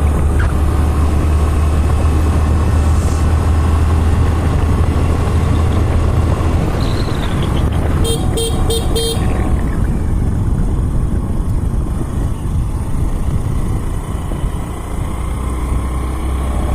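Motorcycle riding on the road with heavy wind buffeting on the microphone. A horn beeps four quick times about eight seconds in.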